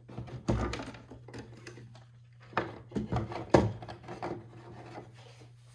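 Clock parts being handled and set against a wooden clock case: several separate knocks and clunks with some rubbing, over a steady low hum.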